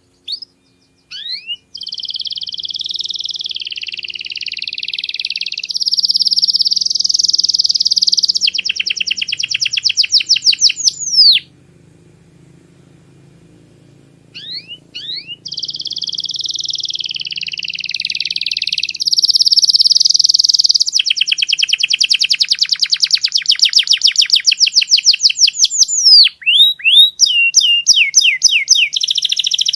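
Domestic canary singing: long song phrases of held rolling tours and fast runs of repeated notes, broken by a pause of about three seconds near the middle.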